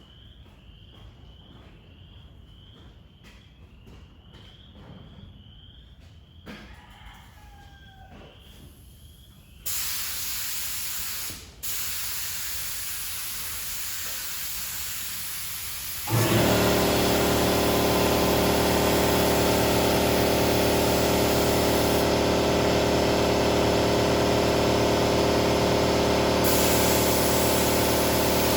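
Spray gun hissing steadily as primer is sprayed at low pressure onto a truck hood, with a short break about a second after it starts. About sixteen seconds in, an air compressor kicks on and runs loudly with a steady hum, drowning the spray. Before the spraying, only faint insect chirps, about two a second.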